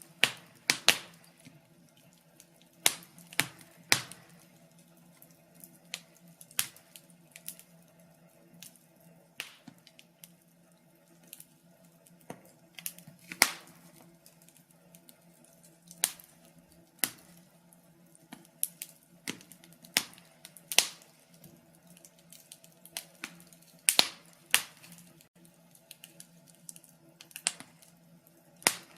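Wood fire crackling: irregular sharp pops and snaps, some louder than others, over a faint low steady hiss of burning.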